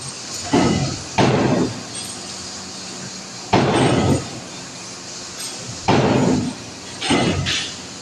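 Heavy hammer blows on the steel parts of an 800-ton press being disassembled: five loud strikes at uneven spacing, each ringing on briefly.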